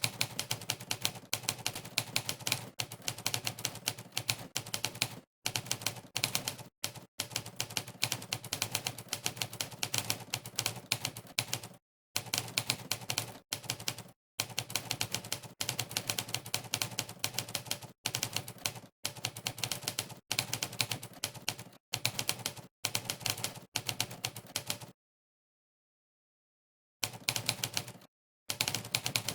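Typewriter keystroke sound effects from the Monkeytype typing-test website, one sampled typewriter key strike per key pressed, in fast continuous runs broken by brief pauses. The clicking stops for about two seconds near the end, then resumes.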